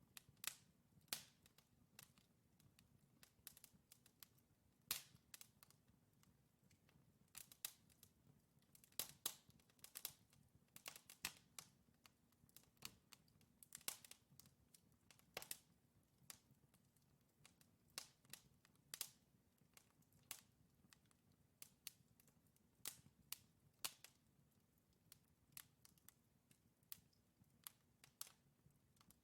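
Wood fire burning in a fireplace, crackling with irregular sharp pops and snaps of varying loudness over a faint low rumble.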